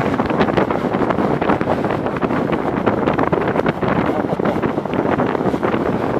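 Steady rain falling, with many close drops striking near the microphone and wind noise on the mic.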